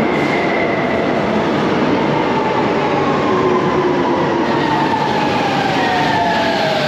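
RENFE Cercanías electric commuter train running, with a steady rumble and a faint motor whine that falls slowly in pitch.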